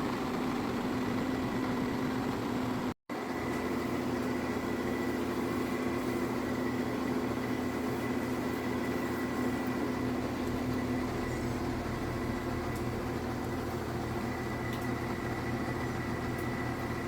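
HVAC equipment running with a steady hum and a faint high whistle. The sound drops out for an instant about three seconds in.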